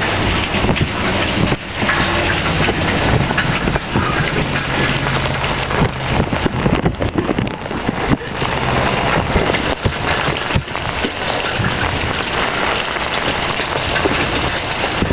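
Rain falling steadily, with many drops hitting close by as quick crackling clicks.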